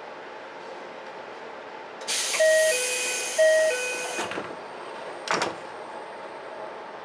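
Door chime and doors of an Ichibata Electric Railway 7000-series train: a hiss of air, a falling two-note chime sounded twice, then the doors knock shut, with a second knock about a second later.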